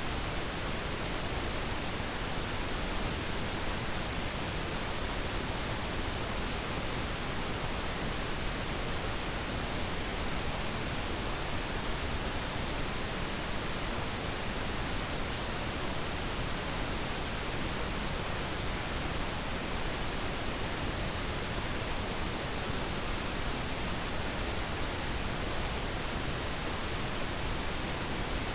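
Steady synthetic pink noise, an even hiss with no change in level.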